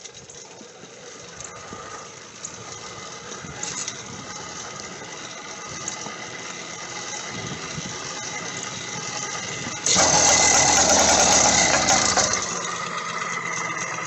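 80cc two-stroke motorized-bicycle kit engine on its first start with the choke on, rattling as it is turned over. About ten seconds in it catches and runs loud through its open-ended stinger exhaust for about two and a half seconds, then drops back.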